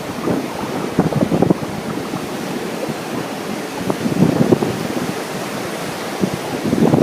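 Wind buffeting the microphone in irregular gusts over a steady rush of ocean surf.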